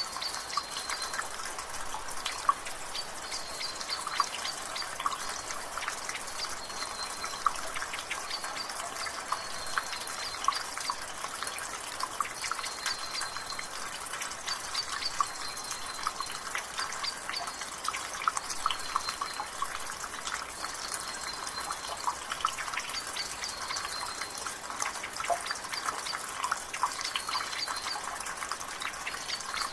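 Water dripping steadily from a rain gutter over a background of drizzle, with many quick drops. A bird gives short high chirps every second or two in the background.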